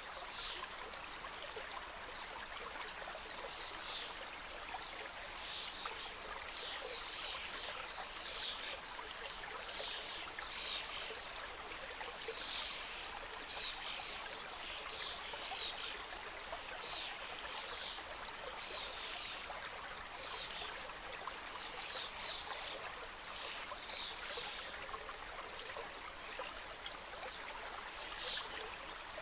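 Mountain stream cascading over rocks: a steady rush of water with frequent bright splashes and trickles over it.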